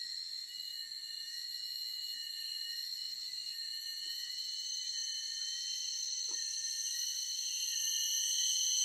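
Chorus of insects, crickets or cicadas, buzzing steadily at several high pitches at once, growing louder near the end.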